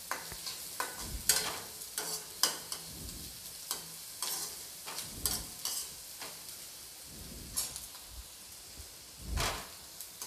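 Chopped onion and garlic sizzling as they fry in hot ghee in a kadhai, with a spatula scraping and knocking against the pan in irregular strokes as the onion is stirred. One stroke near the end is louder than the rest.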